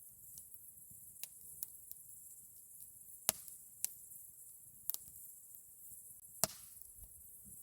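Campfire wood crackling: about seven sharp, irregular pops, the loudest about three seconds in and again near the end.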